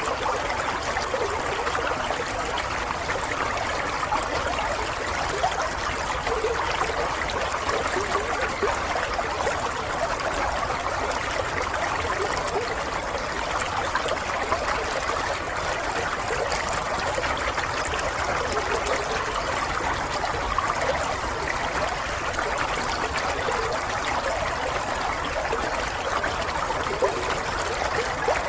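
Running water of a small stream, a steady trickling and babbling flow with small bubbling blips.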